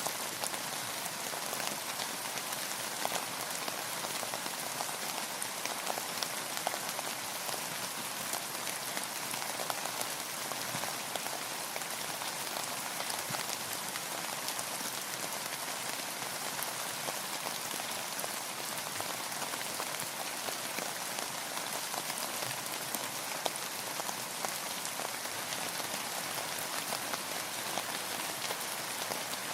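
Steady rain falling, a dense even hiss of many small drops pattering on surfaces.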